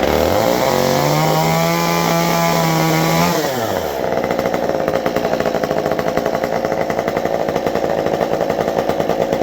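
Stihl MS 194T top-handle two-stroke chainsaw, fitted with its original ported muffler, running just after a cold start with the choke off. It revs up, holds high revs for a couple of seconds, then drops back about four seconds in and idles steadily with a rapid, even pulsing.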